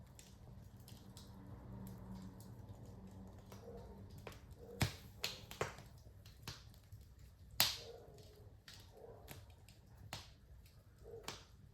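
Wood fire in a fireplace crackling over a low steady rumble, with scattered sharp pops, the loudest about five seconds in and again near eight seconds.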